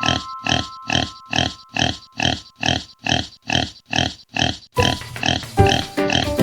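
Pig grunting in a steady rhythm, about two to three grunts a second. The grunts give way near the end to a different, more tuneful sound.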